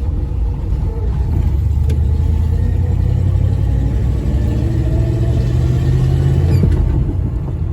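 Dodge pickup's 318 small-block V8 pulling the truck, the engine note building about a second in and rising slowly as it gathers speed, then falling back near the end.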